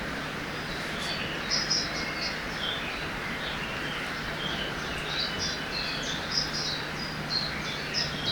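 Forest ambience by a river: the steady rush of flowing water, with birds chirping in short, high, repeated notes that grow frequent from about a second and a half in.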